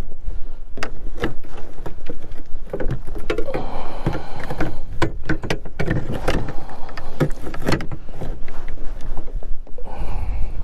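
Strong wind buffeting the microphone with a steady low rumble, overlaid by many irregular sharp knocks and clatter.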